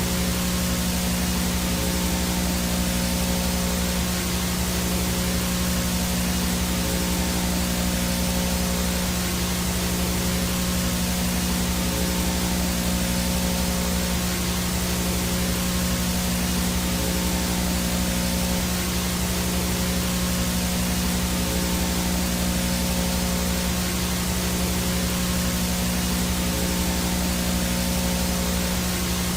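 Analog VHS no-signal static: a steady hiss with a strong low hum and a few fainter steady tones beneath it, unchanging throughout.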